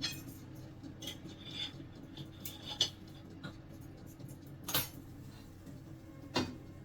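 Scattered clinks and knocks of metal and glass cookware as chicken pieces on a microwave's grill rack and plate are handled and turned over, the two loudest knocks about three seconds in and near the end. A faint low steady hum runs underneath.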